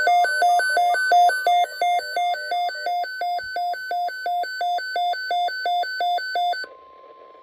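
Weather-alert radio receiver's electronic alarm beeping rapidly, about three beeps a second, as a tornado watch alert comes in. The beeping stops about six and a half seconds in, leaving a faint steady tone, the weather radio's 1050 Hz warning alarm tone.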